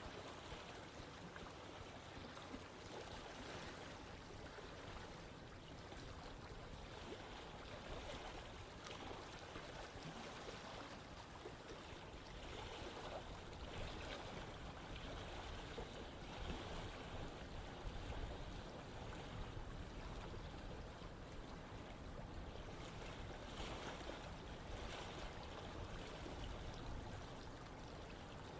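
Running water: a stream flowing steadily, with small irregular splashes and gurgles.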